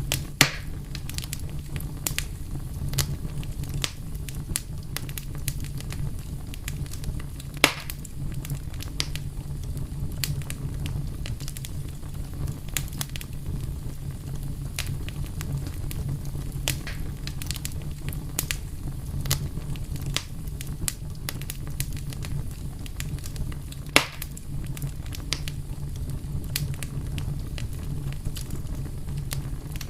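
A fire crackling over a steady low rumble, with a constant scatter of small snaps and three louder pops: one right at the start, one about eight seconds in and one about twenty-four seconds in.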